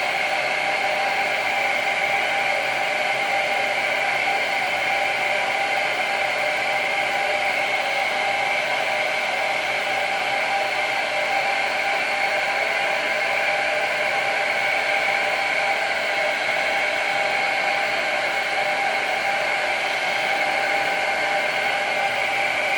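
Handheld hair dryer running steadily: an even blowing hiss with a steady whine in it.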